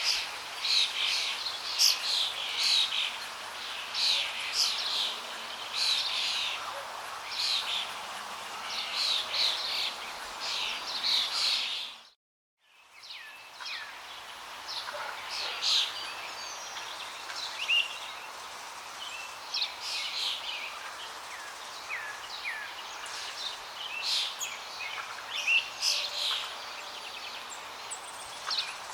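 Many birds chirping and singing in quick, overlapping calls over a steady rush of flowing water. About twelve seconds in, everything cuts out for about half a second and then fades back in.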